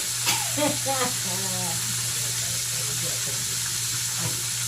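Chicken frying in hot oil: a steady sizzling hiss. A steady low hum runs underneath, and brief voices come in during the first two seconds.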